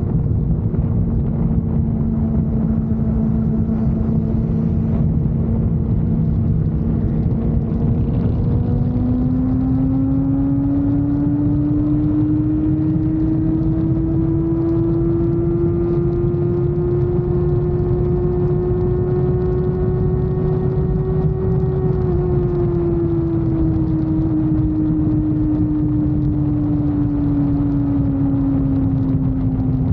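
Motorcycle engine running under way, its note rising about a third of the way in, holding, then easing down toward the end, over heavy wind noise on the microphone.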